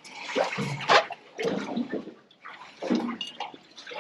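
Water splashing and sloshing in irregular bursts, with a sharp knock about a second in.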